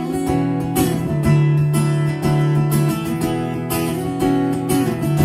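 Acoustic guitar strummed in a steady rhythm, playing the opening chords of a folk song.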